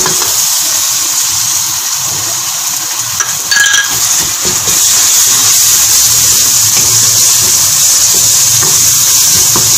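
Garlic and ginger paste sizzling in hot oil with browned onions in a steel pot, stirred with a wooden spoon. The steady sizzle grows louder about halfway through.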